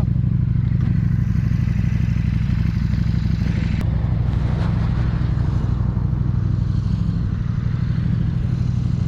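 KTM 1290 Super Duke R's V-twin engine running at steady revs while riding, with a hiss of wind and road noise over it.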